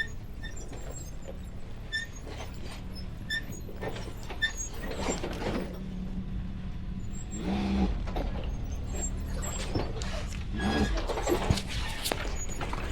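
Off-road vehicle crawling slowly down a rocky trail: a steady low engine hum with creaks, squeaks, rattles and scattered knocks from the body and suspension, and a few short squeals.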